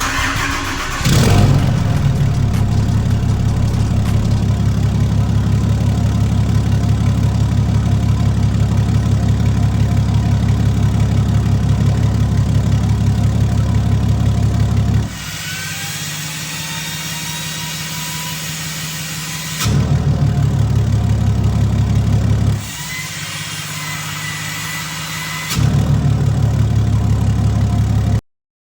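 6.7 L Cummins turbo-diesel starting about a second in, then idling with a steady low rumble. The sound switches abruptly several times between this loud idle and quieter stretches with a faint rising whine, and cuts off suddenly near the end.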